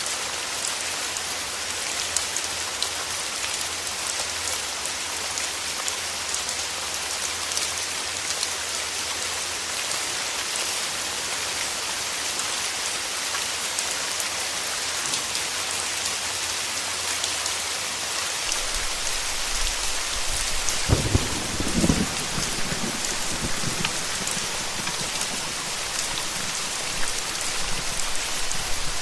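Steady heavy rain hissing on a surface. About two-thirds of the way in, a low roll of thunder rumbles in, loudest for a couple of seconds and then dying back under the rain.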